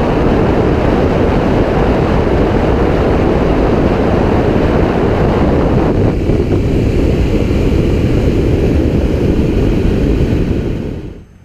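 Wind rushing over a helmet-mounted microphone while riding a motorcycle at speed, with engine and road noise buried in the wind. It fades out sharply near the end.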